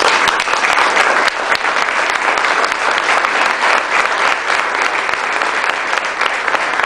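Audience applauding, a dense, steady clapping that starts suddenly and stays loud throughout.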